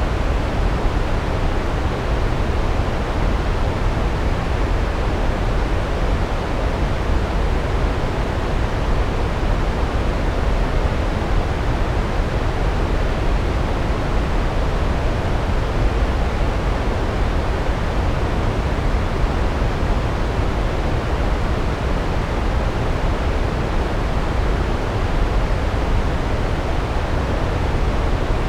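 Large waterfall: a steady, deep rushing roar of falling water, with no change in level.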